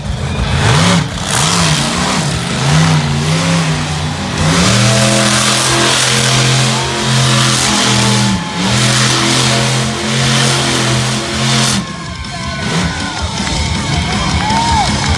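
Monster truck engine revving hard in repeated bursts, then held at high revs for several seconds as the truck spins donuts, then falling off suddenly about three-quarters of the way through.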